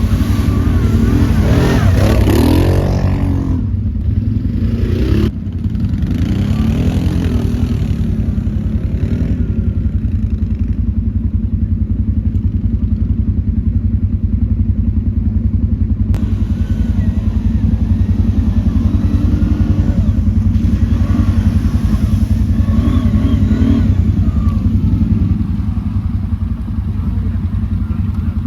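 Quad bike (ATV) engine running during a ride, its pitch rising and falling in the first few seconds, then holding a steadier drone.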